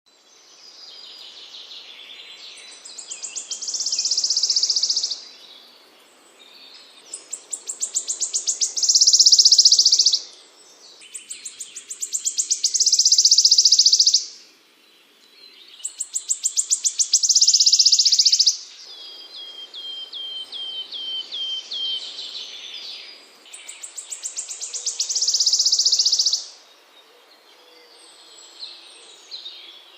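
Small songbird singing a repeated song. Each phrase is a run of quickening notes that builds into a loud, high, buzzy trill lasting a second or two, repeated about every four seconds. Once in the middle a string of short falling notes takes its place.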